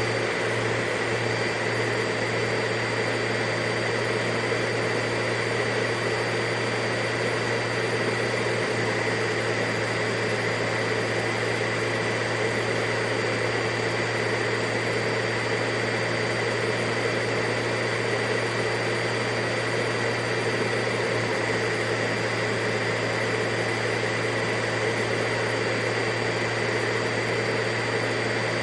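Vacuum cleaner motor running steadily, a constant whooshing rush with a steady high whine, unchanging throughout.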